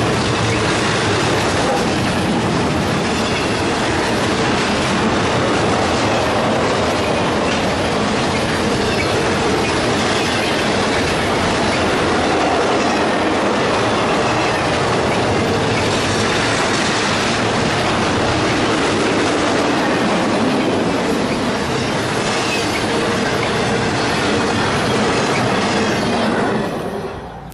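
Intermodal freight train of semi-trailers on flatcars rolling past at close range: the steady noise of steel wheels running over the rail joints, dropping away sharply as the last car goes by near the end.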